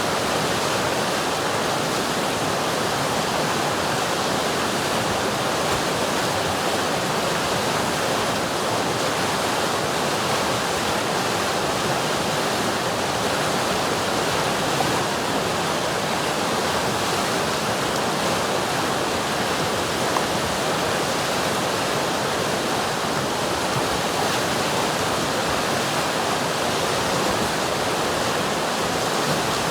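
River water rushing steadily, an even unbroken noise with no changes.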